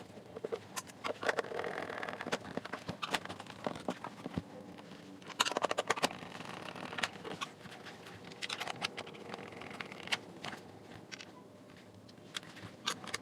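Small plastic speaker parts being handled and fitted together: scattered light clicks, taps and scrapes, with a cluster of clicks about five seconds in.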